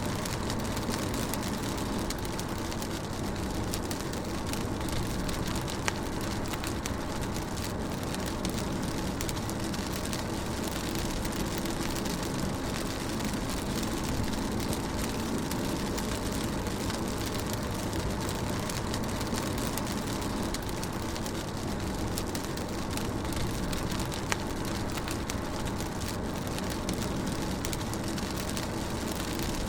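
Rain falling on a moving car, heard from inside: a steady hiss of rain on the roof and glass over the low rumble of the car's engine and tyres, with a few drops ticking now and then.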